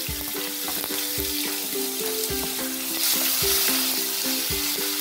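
Coarsely ground chili and shallot paste sizzling as it hits hot oil in a wok, with a plastic spatula scraping and knocking against the pan. The sizzle grows louder about three seconds in. A simple backing melody plays underneath.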